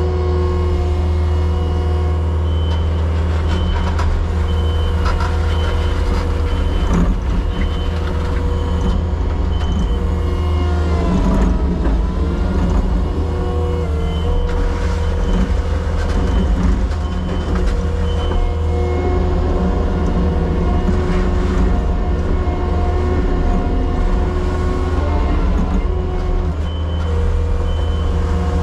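Diesel engine of a compact excavation machine running steadily under hydraulic load, with a backup alarm beeping at intervals near the start and again near the end, and a few clanks.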